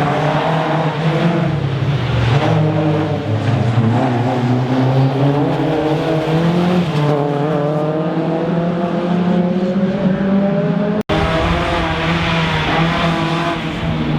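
Rally car engine at full throttle, pitch climbing as it revs up through the gears and dropping back at each upshift, with some tyre squeal. The sound cuts out for an instant about eleven seconds in.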